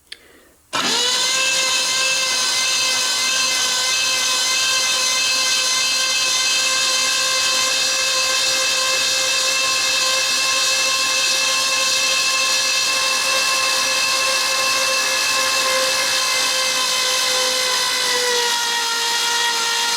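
Starter motor cranking a Ford 429 V8 with its spark plugs removed, spinning it over to prime the oiling system and bring up oil pressure. It starts with a short rise in pitch about a second in, then holds a steady, even whine that dips slightly in pitch near the end.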